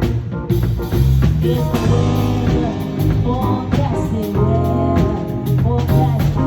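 Live band music: a drum kit beat under a bass line and pitched instruments, with singing.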